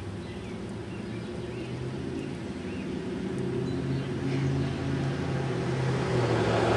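A car engine humming steadily and growing louder as it approaches, with a few faint bird chirps in the first half.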